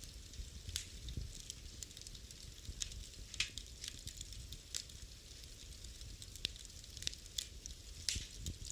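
Wood fire in a fireplace crackling and popping: irregular sharp pops, a few louder ones such as about three and a half seconds in and near the end, over a low, steady rumble of flame.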